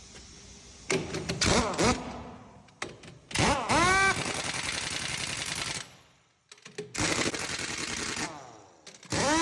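Pneumatic impact wrench on truck wheel work, run in several short bursts. Each burst spins up quickly to a steady whine, with rapid rattling.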